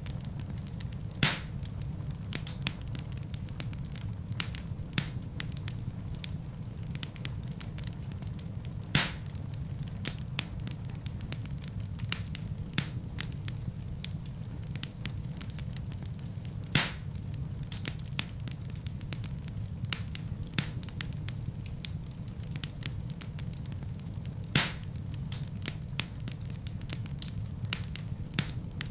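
Fireplace fire burning with a steady low rumble and frequent small crackles, with four louder pops spread through it.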